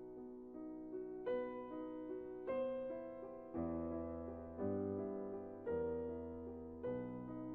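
Background music on a piano or electric piano: soft chords struck about once a second, each fading before the next.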